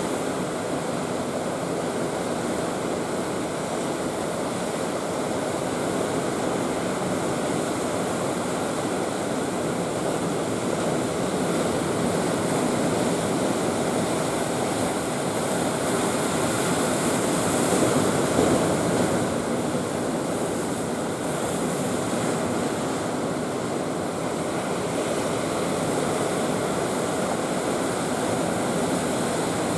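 Heavy typhoon-driven surf crashing continuously against a concrete breakwater, with one bigger surge about eighteen seconds in.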